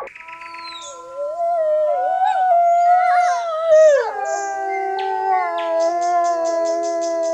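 Several canines howling together in a chorus of long, overlapping held notes at different pitches. About four seconds in, the voices slide down to lower notes and hold there.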